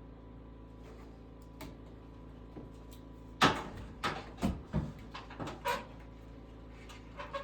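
A quick run of knocks and clunks, the first the loudest, followed by several lighter ones over about two seconds, then two light taps near the end, over a steady low hum.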